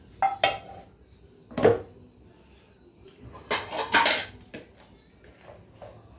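Pots, dishes and utensils being handled in a kitchen: a run of sharp clattering knocks and scrapes, the loudest twice near the start and a cluster about four seconds in, with a few lighter knocks near the end.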